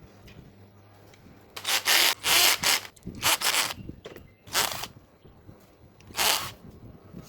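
Abrasive hand rubbing on a part of a mini ceiling fan being restored: four scratchy strokes, the first about a second long and the rest shorter, with short pauses between them.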